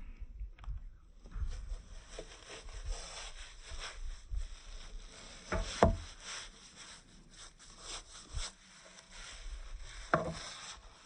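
A soft detailing brush scrubbing over a snow-foamed car's badges and trim, an irregular bristly swishing with small knocks. Two sharper knocks stand out, about halfway through and near the end.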